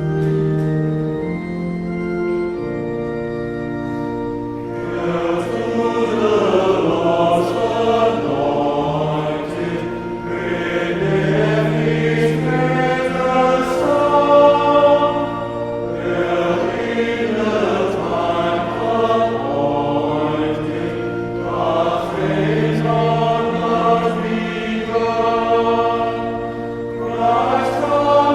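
Organ playing sustained chords, then a men's choir comes in about four and a half seconds in, singing a hymn with the organ accompanying.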